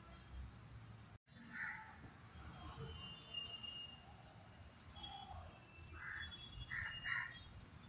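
Faint bird calls: a few short, harsh calls about a second and a half in and a cluster of them near the end, with thin high chirps between.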